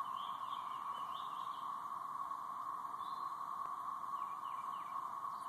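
A massed chorus of periodical cicadas in the trees: one steady, even drone, like a siren coming from all directions. A few short, higher chirps sound over it.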